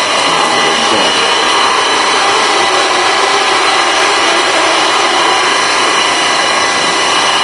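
Nantsune NYL-160S multi-slicer food-slicing machine running, a loud, steady mechanical whir with a few constant whining tones.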